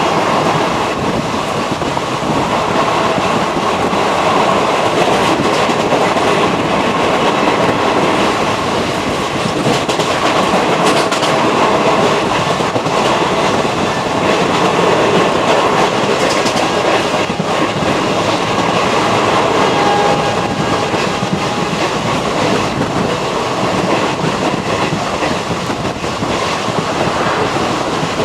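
Raptiganga Express train running at speed: a steady loud rumble with the clickety-clack of wheels over the rail joints.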